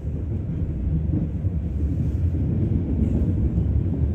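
Steady low rumble of a Mittelrheinbahn regional electric train running along the track, heard from inside the passenger compartment.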